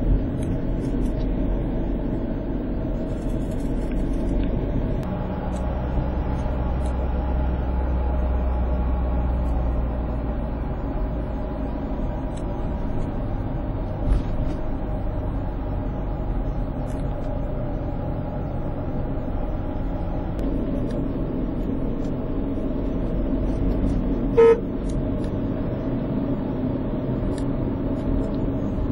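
Steady rumble of highway traffic with heavy trucks, with one short vehicle horn toot near the end.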